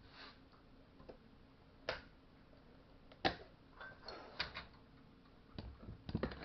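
Tools and small metal parts being handled during chainsaw reassembly, giving scattered clicks and knocks. A few come singly, then in small clusters, with the loudest run near the end.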